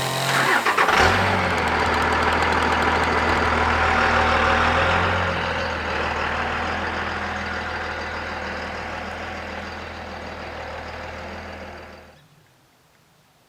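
Small engine of a chainsaw catching about a second in, then running at a steady speed. It gradually fades and cuts off near the end.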